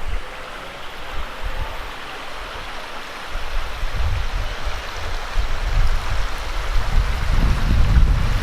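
Stream water running steadily, with wind buffeting the microphone that grows stronger in the second half.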